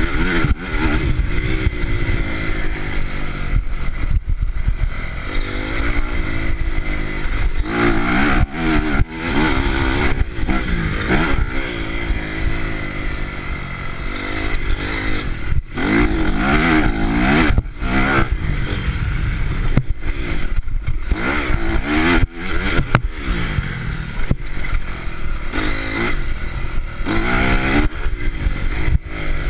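Honda CRF four-stroke motocross bike engines revving hard, the pitch climbing and dropping again and again as the throttle opens and shuts through gear changes.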